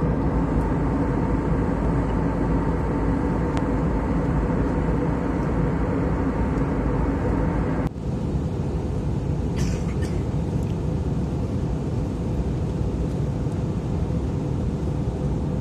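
Airbus A320 cabin noise: a steady rush of engines and airflow with a low hum. The sound changes abruptly about eight seconds in, where the recording is cut.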